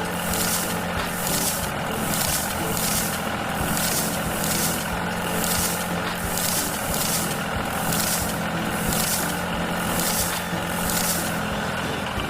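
Cartoon vehicle engine sound effect running steadily, with an even hiss pulsing about twice a second.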